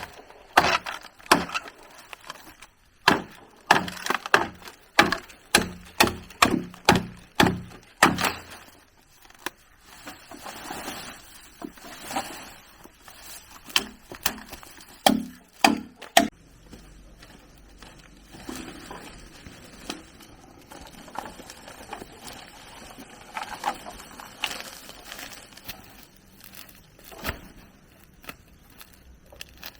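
Bamboo being chopped: a run of sharp strikes, about two a second, for the first eight seconds. A few scattered strikes follow, then fainter knocking and handling sounds.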